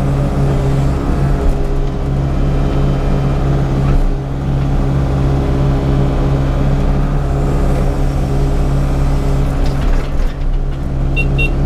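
Excavator's diesel engine running steadily under work, heard from the operator's cab, with two short high beeps near the end.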